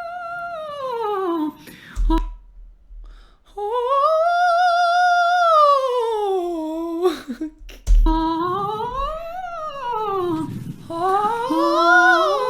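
A woman's voice doing vocal warm-up sirens, hummed: a held high note slides down, then several smooth glides rise and fall in pitch. Near the end two voices glide at once, one rising as the other falls.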